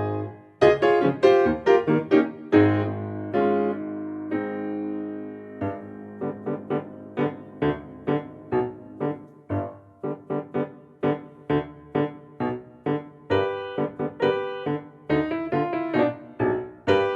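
Background piano music: a few held chords, then a steady run of quick plucked-sounding notes.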